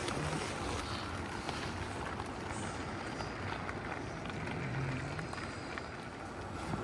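Steady rain falling on a tent's fabric canopy, an even hiss sprinkled with the faint ticks of single drops.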